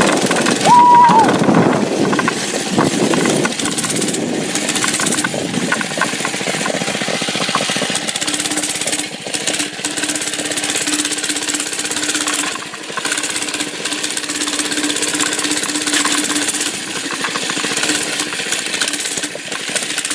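Mini bike's small engine running at speed, mixed with heavy wind noise on the handheld microphone; a steady engine tone holds through the second half.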